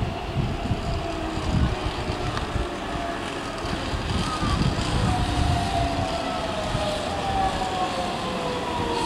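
Keihan 9000-series electric commuter train pulling into the station as it slows, with a low rumble of wheels on rail and a whine from the train whose pitch slowly falls as it brakes.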